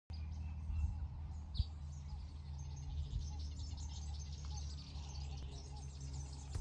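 Small birds chirping busily, many short high calls in quick succession, over a steady low rumble.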